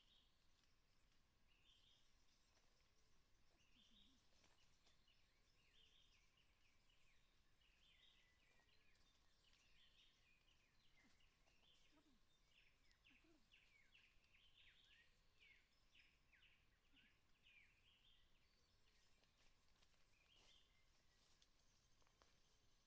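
Faint bird calls: many short high chirps, coming in a quick run of repeated notes in the middle, over a low background hiss.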